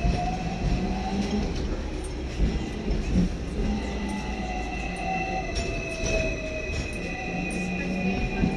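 Hong Kong double-decker electric tram running along its tracks: a steady low rumble of wheels on rail with a high, thin wheel squeal over it, a lower whine that rises and falls, and scattered clicks.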